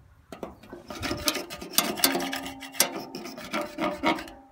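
Rocks scraping and clattering, a gritty rasping run of many small irregular clicks.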